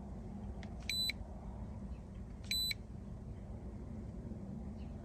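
Two short electronic beeps about a second and a half apart, each a single high tone, from an OBD2 scan tool being operated to read the car's trouble codes. A faint low steady background noise runs underneath.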